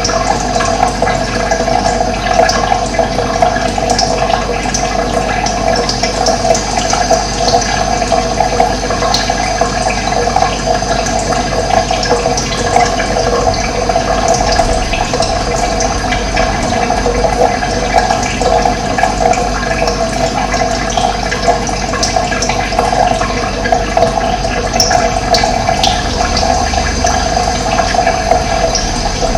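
Running water, a steady unbroken rush, with a few short, faint bird chirps over it.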